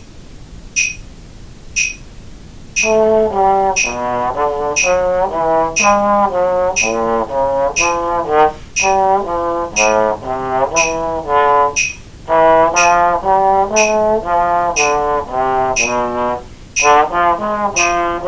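Trombone playing a fast, angular jazz etude passage slowly, down the octave and straight rather than swung, in short phrases over steady metronome clicks. The metronome ticks alone for about three seconds before the trombone comes in.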